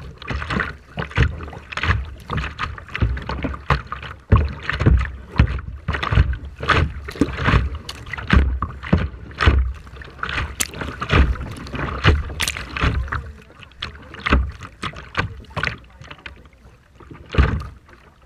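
Rough sea water splashing and slapping in quick, irregular bursts, with strong wind buffeting the microphone as a low rumble.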